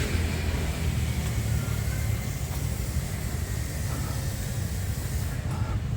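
Steady rumble of street traffic, with no single event standing out.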